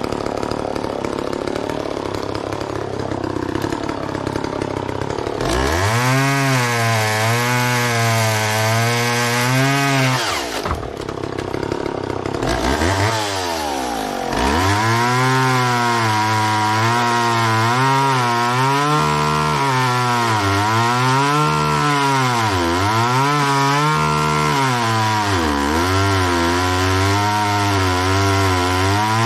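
McCulloch Mac 10-10 two-stroke chainsaw cutting through tough Osage orange wood. About five seconds in the engine comes up to speed and its pitch sags and recovers as it bogs in the cut; it drops off briefly around ten seconds, then revs back up and keeps cutting with repeated dips in pitch under load.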